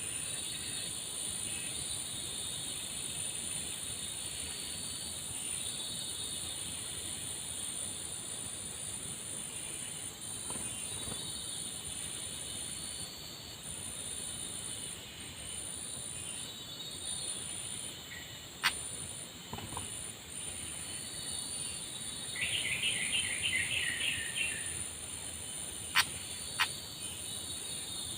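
Outdoor forest ambience: a steady high insect drone with scattered bird calls. About two-thirds through, a bird gives a louder run of quick repeated notes, and a few sharp clicks follow near the end.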